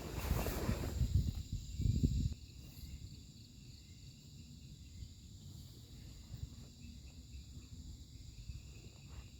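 Night insects, crickets among them, trilling steadily in several high, unbroken tones. For about the first two seconds a louder low rustling rumble lies over them, then stops.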